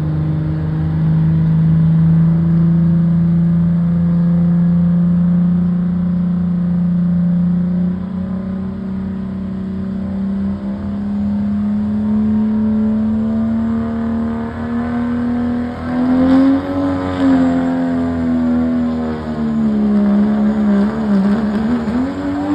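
Cummins 6.7-litre diesel engine of a Dodge Ram pulling truck under full load, its pitch climbing slowly for most of the run. About two-thirds of the way through, the revs start rising and falling unsteadily.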